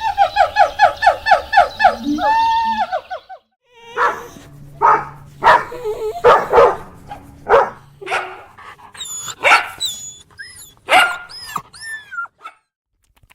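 A dog giving a quick run of about ten short, high yelps, then after a brief pause barking repeatedly, with some high squeaky whines among the barks.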